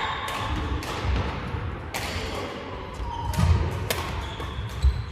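A doubles rally: sharp racket hits about once a second, with heavy footfalls thudding on the court floor and brief shoe squeaks.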